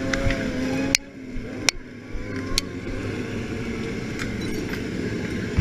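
A vehicle engine running with a steady, slightly rising tone. About a second in it cuts off sharply with a click, and steady engine and road noise follows with a couple of short clicks.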